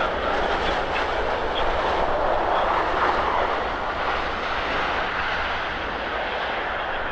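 Jet engine noise from a Sunwing Boeing 737-800 with CFM56 turbofans on arrival: a steady broad rush that swells slightly about three seconds in, then eases.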